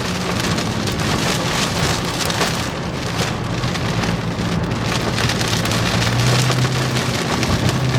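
Rain pelting a moving vehicle's roof and windshield, heard from inside the cabin as a dense patter of drops over a steady low road and engine hum that grows stronger about six seconds in.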